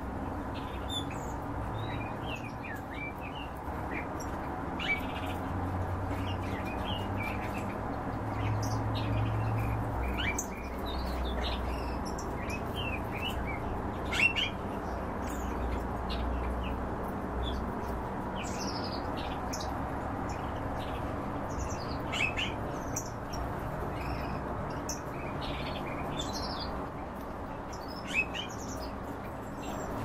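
Small caged birds chirping: short, scattered high chirps, a few of them louder, over a steady low background hum.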